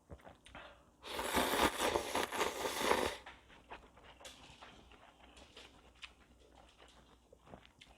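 A person slurping ramen noodles loudly for about two seconds, followed by quieter chewing with small wet clicks.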